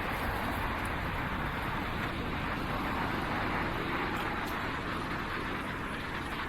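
Steady city traffic and road noise heard from a moving bicycle, an even rushing sound with no single event standing out.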